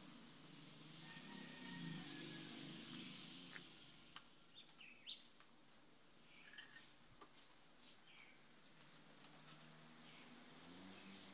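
Faint bird chirping: a quick run of short, high chirps in the first few seconds, then a few scattered chirps, over a low background hum. A few light clicks come through while a potted plant is handled on its stand.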